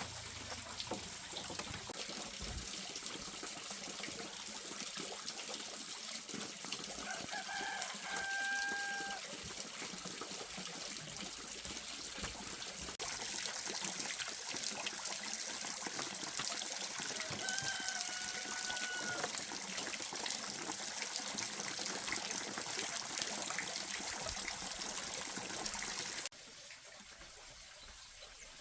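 Steady trickling water with a rooster crowing twice, once about a third of the way in and again past the middle. The water sound gets louder partway through and drops abruptly near the end.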